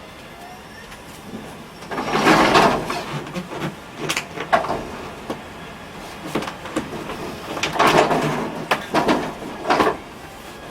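Irregular knocks, clatter and scraping of hard parts being moved and handled, in several bursts starting about two seconds in.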